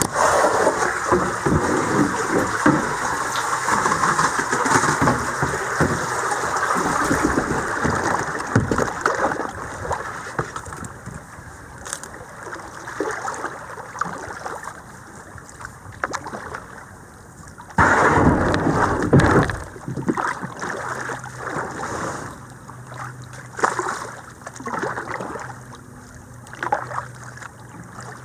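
Creek water splashing and sloshing around a kayak as it moves downstream. It is louder for the first half, then quieter with scattered splashes.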